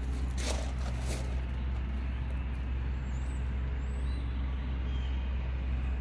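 Engine of the heavy lifting machine running with a steady low drone, with two sharp metallic knocks about half a second and a second in.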